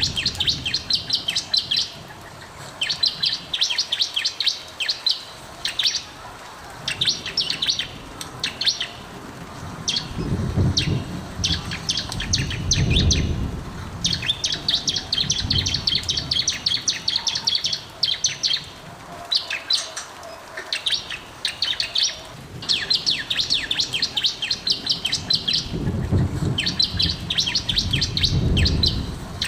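Bar-winged prinia (ciblek) singing hard, with fast trills of high chirps. The trills come in bouts of a second or few, broken by short pauses. A low rumble sits under the song twice.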